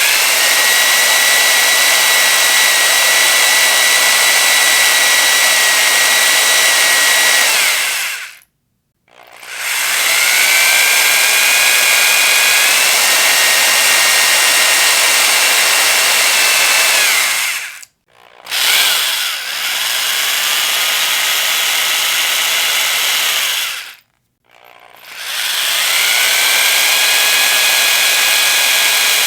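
Electric power drill running in four long bursts of several seconds, with short pauses between them. Each burst has a high whine that rises as the motor spins up and drops as it winds down.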